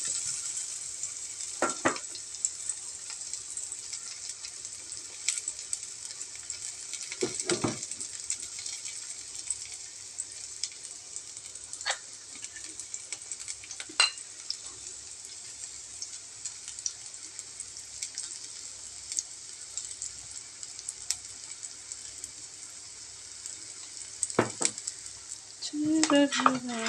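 Chopped garlic and onion frying in hot oil in a nonstick pan: a steady sizzle with a few scattered sharp clicks.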